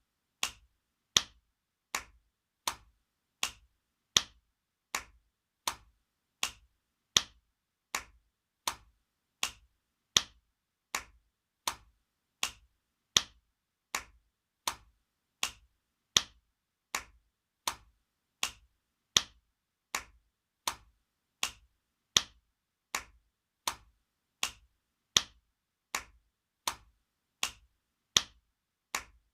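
Spanking sound effect: an open hand slapping skin in sharp single smacks, repeated steadily about every three quarters of a second, with every fourth smack louder.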